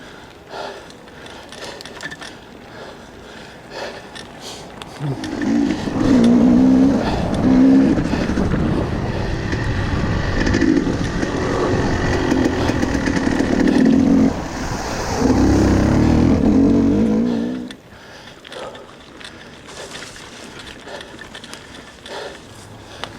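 A motor running hard in uneven surges for about twelve seconds, starting about five seconds in and cutting off suddenly. Scattered rattling and clicking can be heard before and after it.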